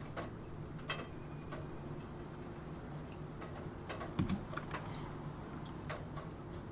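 Computer keyboard keys pressed now and then in a pause between typing runs, a few separate clicks with a duller knock about four seconds in, over a steady background of rain.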